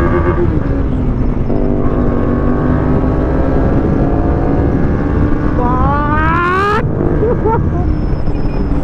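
Bajaj Dominar 400's single-cylinder engine pulling hard at highway speed under heavy wind rush. The revs drop at an upshift about a second and a half in, then climb slowly. About six seconds in they rise steeply and cut off abruptly at the next shift.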